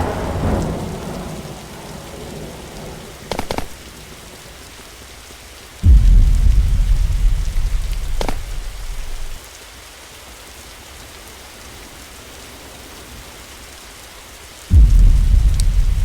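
Steady rain-like hiss with two sudden deep rumbles about nine seconds apart, each dying away over about three seconds.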